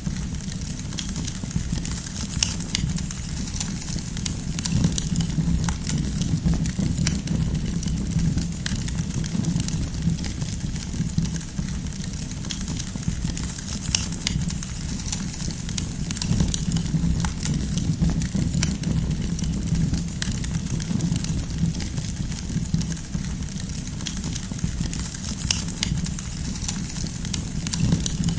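Wood fire burning with a steady low rumble of flames and frequent small, sharp crackles and pops scattered throughout.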